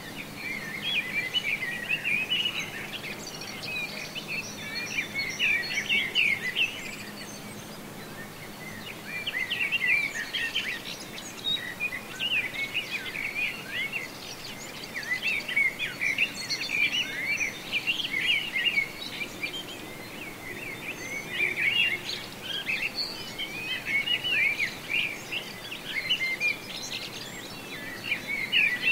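Birds chirping and singing in repeated bouts of quick, high chirps, each bout lasting a few seconds, with short pauses between.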